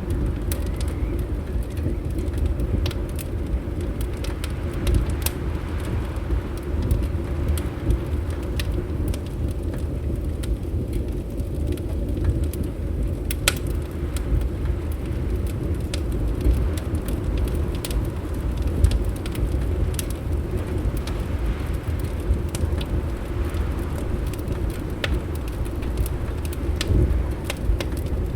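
Fireplace wood fire crackling, with irregular sharp pops scattered over a steady low rumble of wind.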